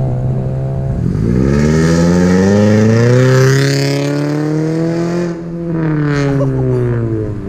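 Car engine accelerating hard, its pitch climbing for a couple of seconds and holding high before easing off, falling in pitch as the car comes off the throttle.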